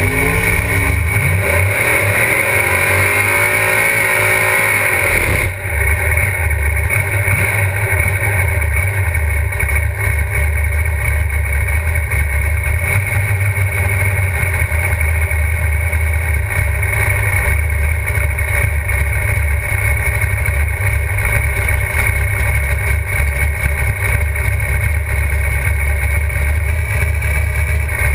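Drag-race Pontiac GTO's engine heard from inside the cockpit, loud and continuous. For the first five seconds its pitch sweeps downward under a rushing hiss. The hiss stops abruptly, and the engine settles into steady low-speed running.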